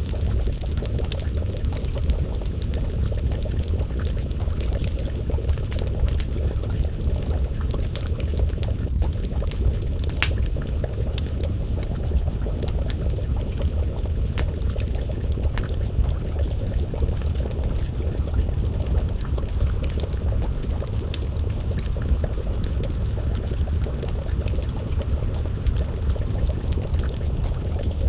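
Wood fire crackling, with scattered sharp pops and snaps over a steady low rumble, and a pot of stew simmering and bubbling over the flames.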